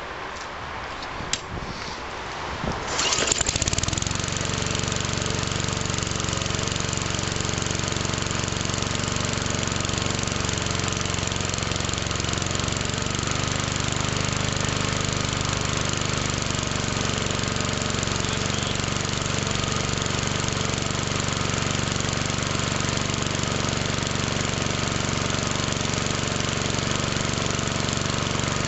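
Briggs & Stratton 3.5 hp Classic engine on a 1992 Murray 20-inch lawn mower, cold-started after five months unused: it catches on one pull about three seconds in and then runs steadily. A sharp click comes about a second in, before the start.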